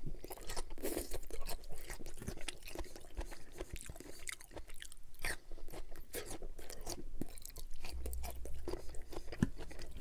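A person chewing and biting into asparagus spears, with irregular crunches.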